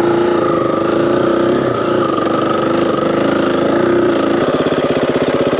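KTM 350 EXC-F single-cylinder four-stroke dirt bike engine running at a steady light throttle, then easing off to idle about four and a half seconds in.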